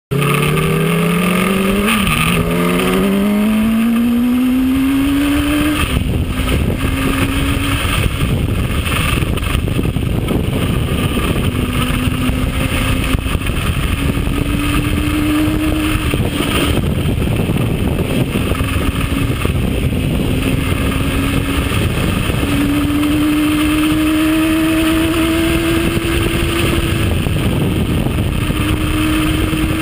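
Yamaha R1 sport bike's inline-four engine accelerating hard, its pitch climbing steeply through the gears for about the first six seconds, then holding a high cruising note that rises slowly in stretches. A loud steady rush of wind noise runs underneath.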